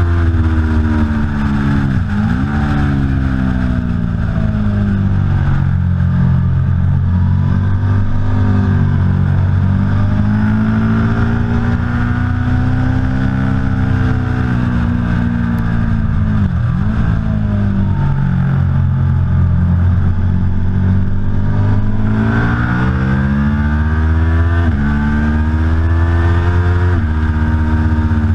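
Aprilia Tuono V4 Factory's V4 engine running hard on track, its pitch rising and falling continuously as it accelerates and slows. There are sudden sharp dips in pitch about two, seventeen and twenty-five seconds in.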